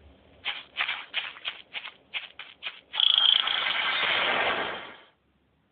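Video game sound effects: a run of about eight short noisy bursts, roughly three a second, then a louder noisy blast lasting about two seconds that fades out.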